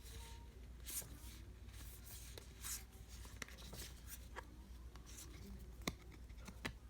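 Baseball trading cards being handled and flipped through: several faint sliding swishes of card on card, and two sharp light clicks near the end.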